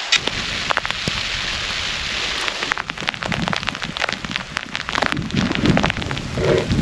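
Rain hitting a surface during a storm: a steady hiss with many sharp ticks of drops, and low rumbling swells of wind in the second half.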